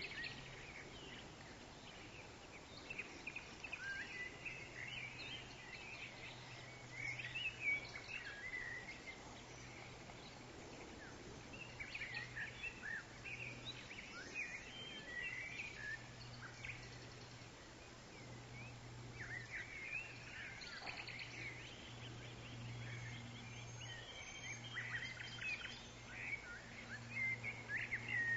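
Forest ambience: small birds chirping and twittering in scattered runs, over a steady low hum.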